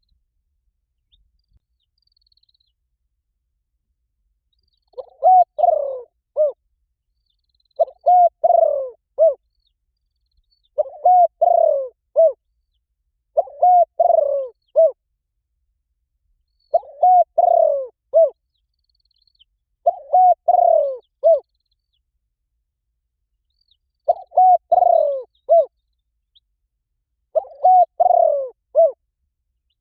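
Spotted dove cooing: a repeated phrase of three or four low coo notes, given about every three seconds, starting about five seconds in. It is the dove's calling coo, used to draw other doves to answer.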